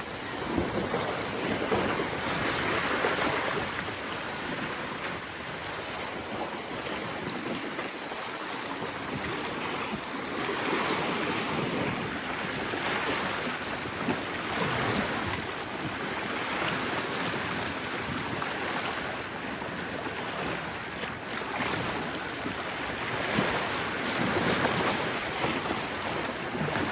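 Sea waves washing onto a shore, a steady rushing that swells and falls back every few seconds, with some wind on the microphone.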